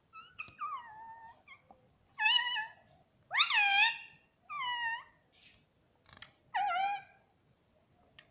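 Indian ringneck parrot making about five drawn-out pitched calls in a row, mostly falling in pitch; the loudest, a little over three seconds in, rises sharply before it falls.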